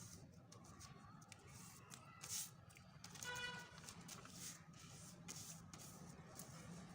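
Near silence: a faint low hum with a few soft rustles and clicks, and a brief faint squeak about three seconds in.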